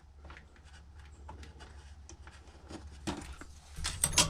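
Light clicks and small rattles of hands working inside a karaoke machine's casing as its small wires are cut out, with a few sharper clicks about three seconds in and again near the end.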